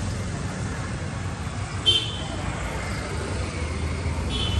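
A motorcycle engine idling steadily, with two brief high-pitched chirps, about two seconds in and again near the end.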